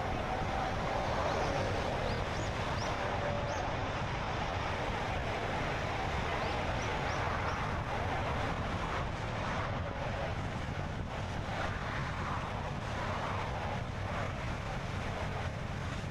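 Car driving at a steady pace: continuous tyre and wind noise. A few faint, short, high bird chirps come through in the first half.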